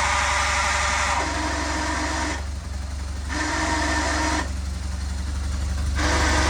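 BMW R1200GS flat-twin engine running with a steady low hum, and a higher noise over it that cuts in and out about every second or two. It is the bad noise that the owner is trying to track down.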